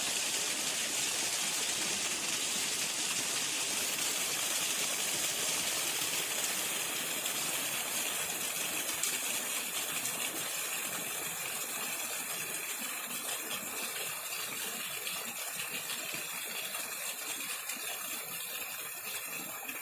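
Waterfall rushing: a steady hiss of falling water, easing a little in the second half.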